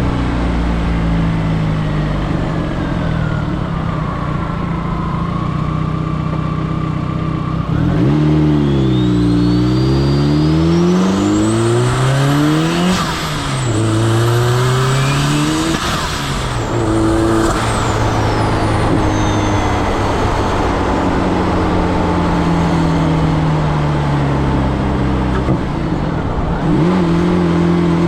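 Turbocharged 1.8-litre four-cylinder engine of a 1996 Audi quattro pulling hard, its revs climbing and dropping through several quick gear changes with a high whine rising alongside, then running steadier before revving up again near the end.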